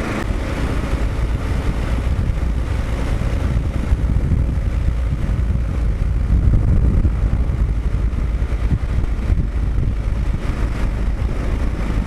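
Kawasaki KLR650's single-cylinder engine running while the bike is ridden on the road, mixed with wind rush, getting louder about six seconds in.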